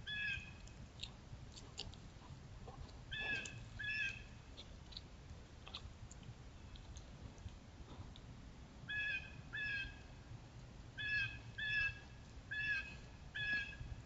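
A bird calling repeatedly: short pitched calls, mostly in pairs, with pauses of several seconds between groups and a quicker run of calls near the end.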